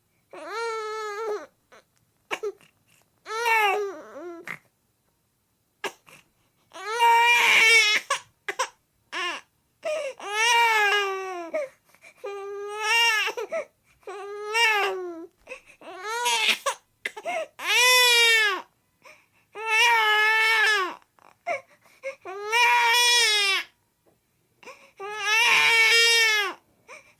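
A person crying in a series of loud, high-pitched wails, about a dozen of them, each roughly a second long, arching up and falling away, with short breaths of silence between.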